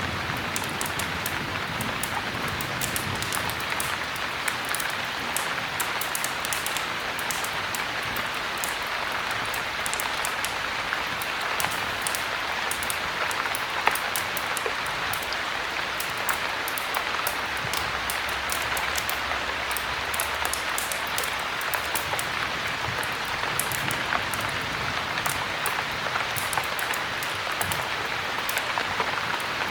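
Steady heavy rain with a crackling fire, many small sharp pops and clicks scattered through it.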